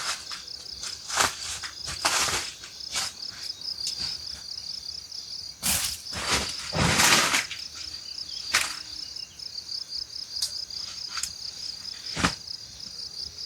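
Crickets chirping in a steady, fast pulsing trill. Short rushing noises and sharp knocks break in every second or two, the loudest about seven seconds in.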